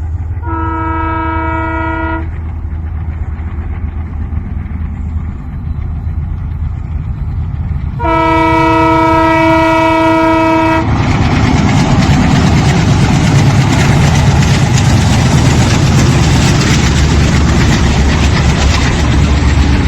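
Indian Railways express train: a locomotive horn sounds briefly about half a second in, then gives a longer blast of about three seconds starting around eight seconds in. After that the train passes at speed with a loud rush of wheel and wagon noise and a clickety-clack.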